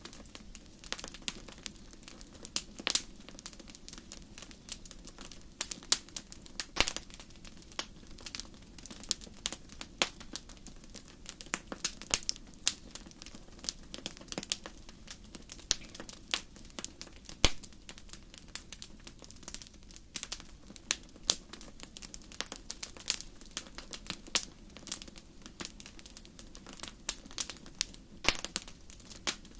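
Fireplace fire crackling: irregular sharp pops and snaps, several a second and some much louder than the rest, over a soft steady hiss.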